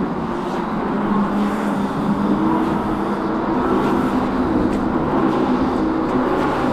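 Ebox dragster mini bike's motor running steadily under way, a hum with slight changes in pitch over wind and tyre noise.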